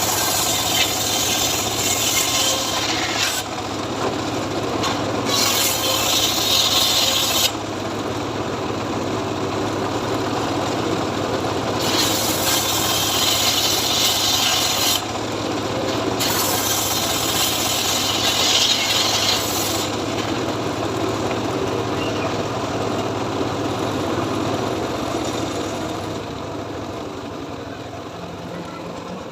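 A homemade engine-driven saw cutting teak wood: the engine runs steadily while the blade rasps through the wood in four cutting spells of a few seconds each. The sound fades away near the end.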